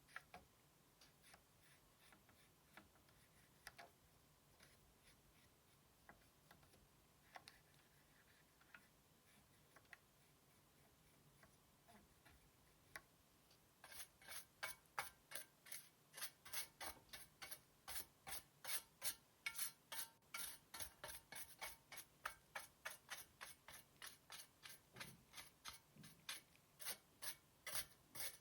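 Hand cleaning of a PS4 Slim power supply part: a few scattered light clicks and taps, then from about halfway quick rubbing scrub strokes, about three a second.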